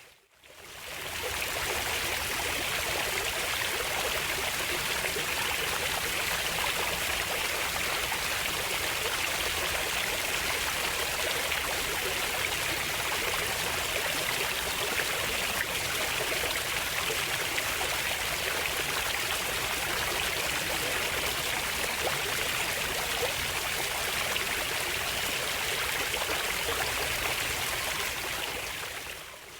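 Running water flowing steadily. The sound fades in over the first second and fades down again in the last second.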